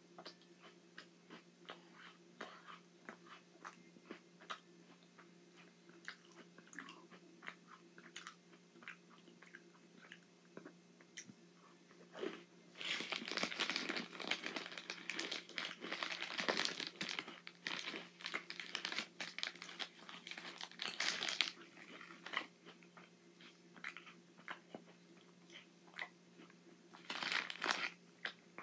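A person chewing a crunchy chocolate sandwich cookie, many small crunches. For several seconds about halfway through, and again briefly near the end, the plastic cookie packet crinkles loudly as it is handled.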